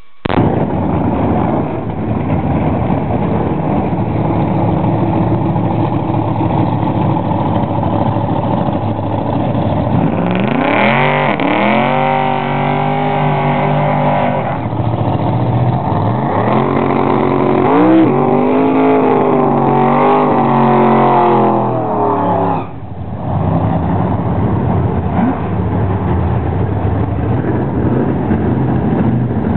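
Drag-racing Corvette Sting Ray's V8 running at idle, then revved hard twice for several seconds each time during a smoky burnout, its pitch climbing and holding high. The second run cuts off suddenly about three quarters of the way through, and the engine settles back to a steady idle.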